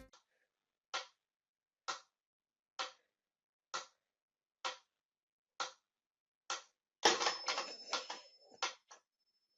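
Even ticking, seven sharp ticks a little under a second apart, then a busier clatter of clicks with a thin high steady tone over the last two seconds or so.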